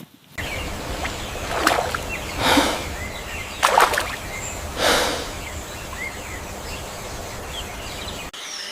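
Outdoor ambience: a steady low rumble with four short whooshing swishes and a few faint bird chirps.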